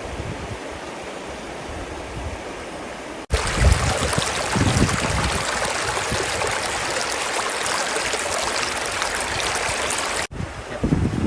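Steady rushing water, with low buffets of wind on the microphone. About three seconds in it cuts suddenly to a louder, fuller rush, and about a second before the end it cuts back to a quieter one.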